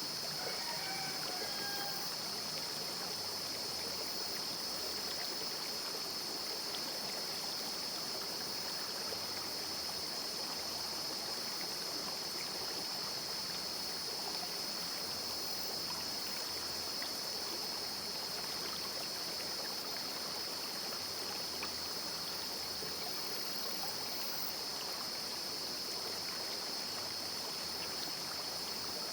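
Small rocky river stream babbling steadily, with a steady high-pitched drone above the water and a few faint bird chirps in the first two seconds.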